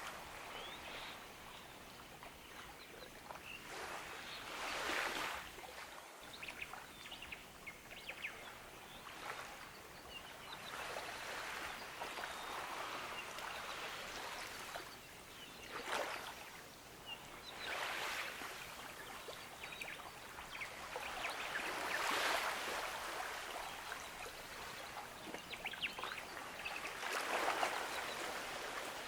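Gentle ocean waves washing onto a beach, each swell rising and falling every few seconds, with faint bird chirps.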